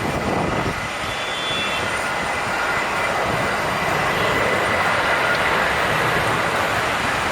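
Jet airliner engines, loud and steady, with a thin high whine, as an airliner takes off or lands. It swells slightly about four seconds in.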